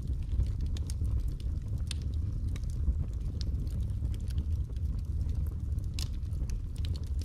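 Wood fire crackling, with scattered sharp pops and snaps over a low, steady rumble.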